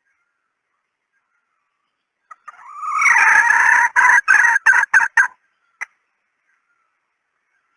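Female red junglefowl (hen) calling. A little over two seconds in she gives one drawn-out call that rises at its start, then breaks into a run of about six short clucking notes, and gives one more brief note near the end.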